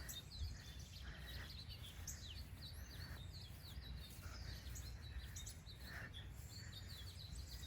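Birds chirping and calling outdoors, many short, quick notes throughout, over a low steady rumble.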